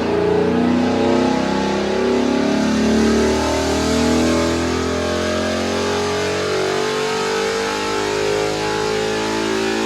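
2018 Mustang GT's 5.0 V8 running on a chassis dyno, its exhaust note coming through catless headers, a deleted resonator and a Corsa muffler. The engine note is loud and fairly steady, with several pitched tones layered together.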